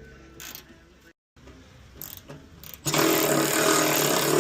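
Cordless battery ratchet wrench running for about two seconds on a bolt, starting about three seconds in, after a few light knocks of tool and metal.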